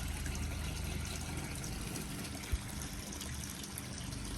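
Steady, even background hiss, with a single brief low thump about two and a half seconds in.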